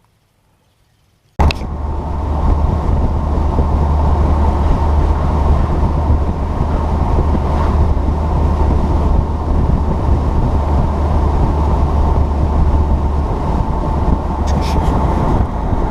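2008 Saturn Sky Redline roadster cruising at road speed: a steady rumble of engine, tyre and wind noise that starts abruptly about a second and a half in, after near silence.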